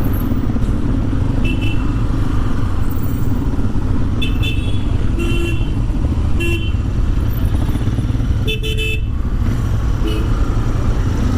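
Motorcycle engine running with a steady low rumble while riding in city traffic, with about six short vehicle horn honks, the longest about 8.5 seconds in.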